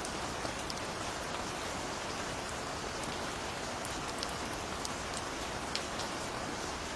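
Steady rain falling: an even hiss of many drops, with now and then a single sharper drop landing close by.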